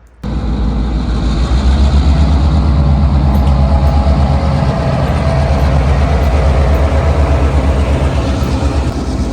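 A vehicle engine running steadily with a low, fast-pulsing rumble, starting abruptly just after the beginning.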